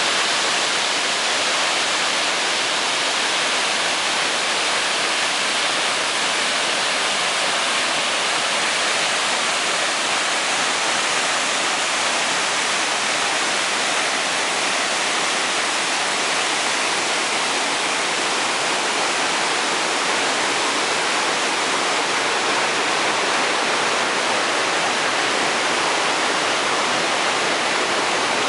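Waterfall (Zengoro Falls): falling water making a steady, unbroken rush with a hissing top.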